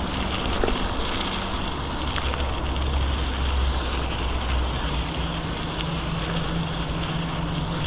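Wind rushing over the microphone while cycling, with a steady low rumble from the ride and a faint low hum joining about five seconds in.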